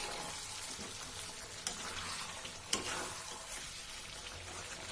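Chicken gravy with milk cream sizzling in a hot kadai while it is stirred, with two sharp knocks of the stirring utensil against the pan about a second apart.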